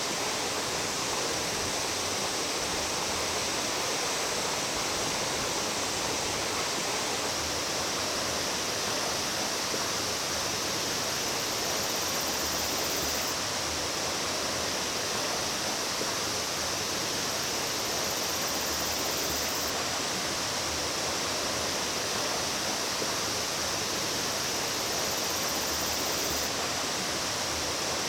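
Rushing water of a mountain stream, a steady, even rush with no letup.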